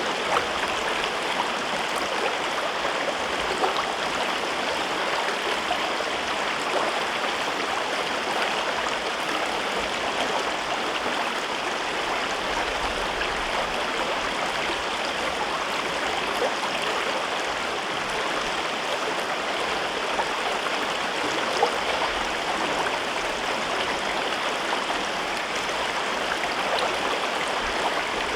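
A river in a gorge, flowing steadily: a constant rush and babble of water with small splashes scattered through it.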